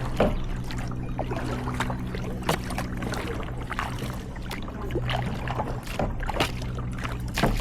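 Kayak paddles dipping into lake water, with irregular splashes and knocks over a steady low hum.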